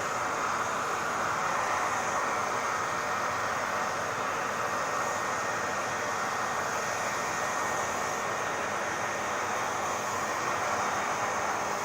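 Hair dryer running steadily: an even rush of blown air with a faint, unchanging whine in it.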